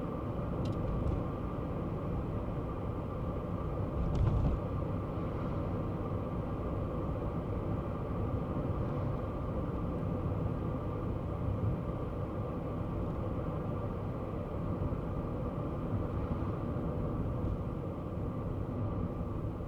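Kei car driving along at a steady pace: a constant low drone of its small 660 cc engine and tyre noise on the road, with a brief bump about four seconds in.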